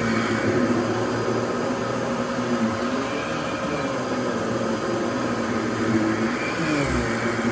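Fantom Lightning canister vacuum cleaner running steadily, its motor pitch wavering up and down a little as the load changes.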